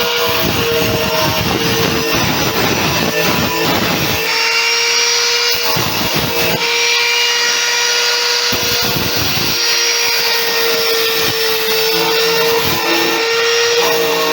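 Angle grinder running with a steady whine, grinding the sharp cut edges off the washing machine's sheet-steel base in bursts: through the first few seconds, again about six seconds in, and again around nine seconds.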